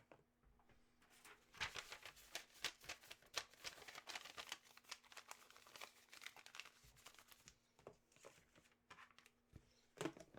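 Packaging crinkling and rustling as it is handled, with many quick, irregular crackles from about a second and a half in until about seven and a half seconds. Near the end come two sharper knocks, with a faint steady hum underneath throughout.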